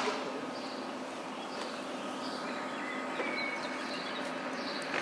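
Steady hum of a passenger train standing at a station platform, with faint bird chirps.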